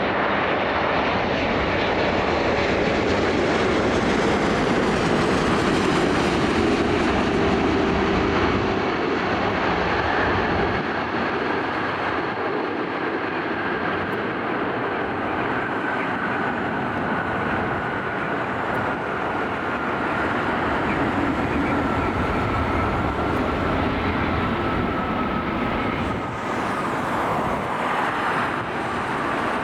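Boeing 757-200 jet engines at takeoff power: a steady, loud roar with a faint whine that slowly falls in pitch.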